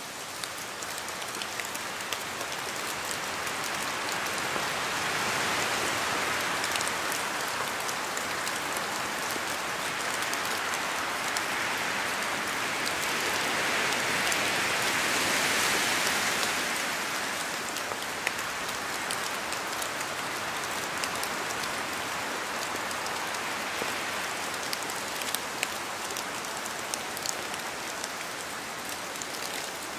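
Steady rain falling on a surface, an even hiss of drops with scattered sharper drop ticks, swelling a little louder twice before easing back.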